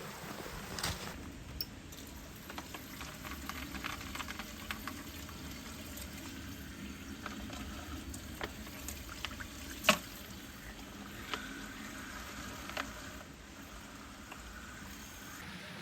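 Campfire crackling with scattered small pops and one louder pop about ten seconds in, against the steady rush of a mountain stream.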